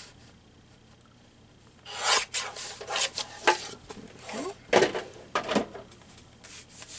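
A sliding paper trimmer cutting paper: several short rasping strokes, some with brief squeaks, starting about two seconds in and stopping near the end.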